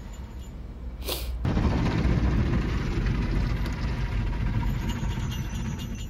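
Automatic car wash machine running through its wash cycle with a steady low rumble. About a second in there is a short hiss, and then the noise turns louder and denser as the washing gets going.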